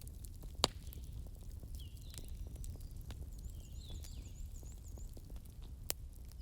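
Wood fire crackling over a low steady rumble, with a sharp pop about half a second in and another near the end. Faint high chirps sound in the background.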